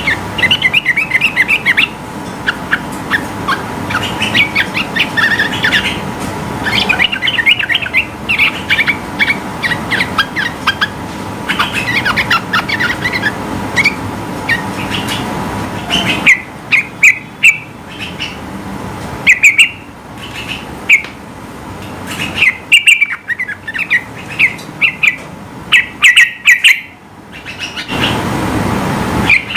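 Yellow-vented bulbul (trucukan) singing vigorously in rapid runs of chirping notes. About halfway through, the song breaks into quick volleys of sharp, loud notes with short pauses between them.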